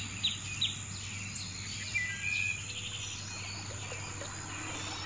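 Birds chirping: a quick run of short, falling chirps at the start, then a few scattered calls, over a steady low hum and hiss.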